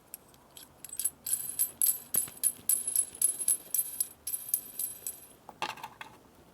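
Rapid metallic clinking and jingling with a high ring: small nuts being spun onto the threads of an anodized EMPI adjustable pushrod tube. A short scrape near the end.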